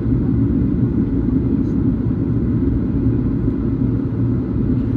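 Steady low rumble inside the cabin of a Boeing 737, from its jet engines and airflow.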